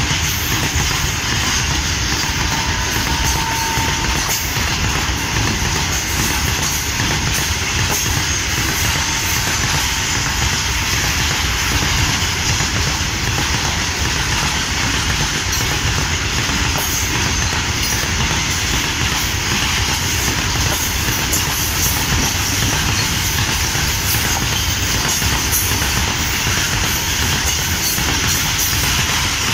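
BCNA covered goods wagons of a freight train rolling past close by: a loud, steady rumble and clatter of steel wheels on the rails, with scattered sharp clicks.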